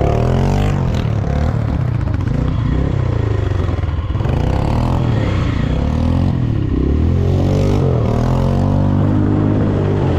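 Off-road vehicle engine revving, its pitch rising and falling several times as the throttle opens and closes, with a brief drop about four seconds in.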